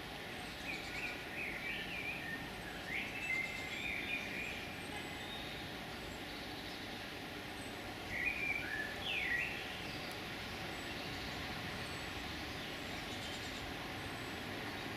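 Small songbirds giving short, chirping alarm calls, some sweeping downward in pitch, in scattered bursts through the first ten seconds, over a steady background rumble. The calls are taken as alarm at a woodpecker that has robbed a nest.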